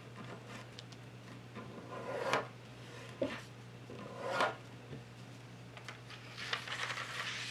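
A sheet of paper being folded and creased by hand: two swelling rubbing swipes along a fold, a small click between them, and paper rustling near the end.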